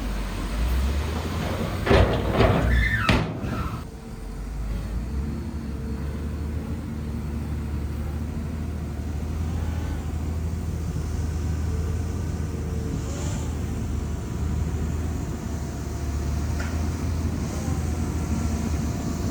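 Shantui bulldozer's diesel engine running steadily under load, with a loud squealing, clattering burst lasting about a second and a half, about two seconds in.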